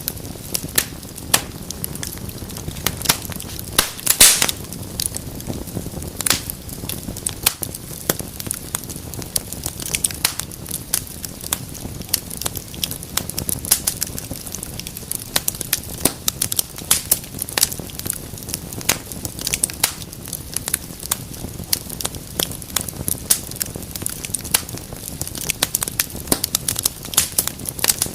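Fire burning in a fireplace, crackling with irregular sharp pops over a low steady rumble of the flames, with a louder cluster of pops about four seconds in.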